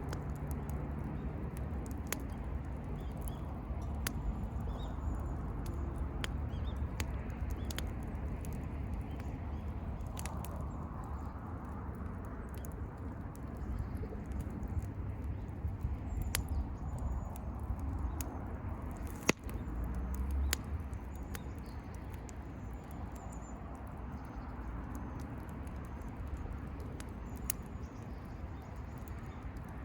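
Wood bonfire crackling: scattered sharp pops and snaps of burning firewood over a low steady rumble, with one louder pop about two-thirds of the way through.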